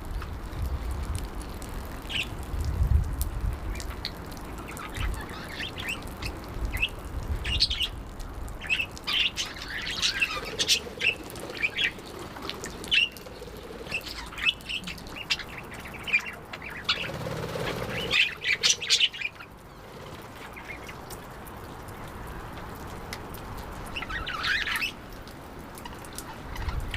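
Budgerigar chirping and chattering in short, quick calls, busiest through the middle, with a last burst near the end. A low rumble sits under the first few seconds.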